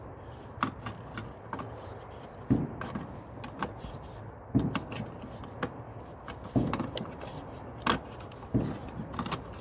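Irregular clicks and knocks of a dual ignition coil pack and its plug leads being handled and pulled free from the engine.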